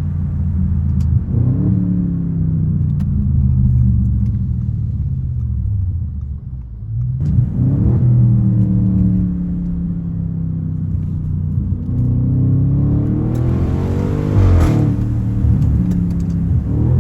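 Straight-piped twin-turbo 4.0 TFSI V8 of an Audi A8L, heard from the driver's seat, pulling under throttle: the engine pitch climbs and drops several times, the longest climb peaking with a hiss about three quarters of the way through before falling sharply.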